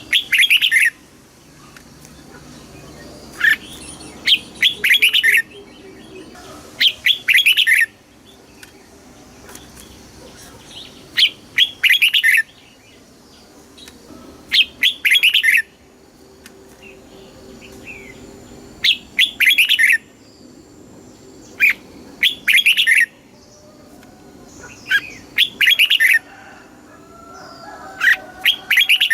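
Red-whiskered bulbul singing: short, loud, chattering song phrases of about a second each, repeated every three to four seconds, with quiet gaps between.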